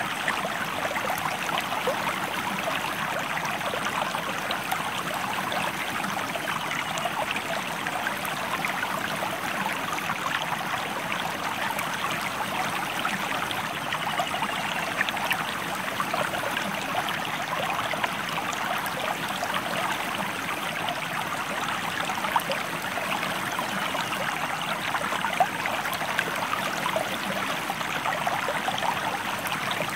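A stream of running water, a steady rush and babble of water flowing over rocks, with fine splashing throughout.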